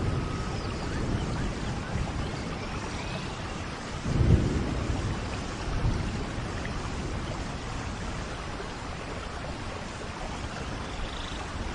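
Steady tropical rain falling on foliage, with a low rumble of distant thunder swelling about four seconds in. A few faint bird calls sound through the rain.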